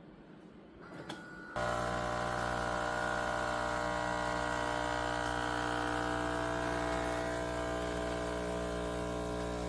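Philips 4300 fully automatic espresso machine running with a steady mechanical hum that starts suddenly about a second and a half in.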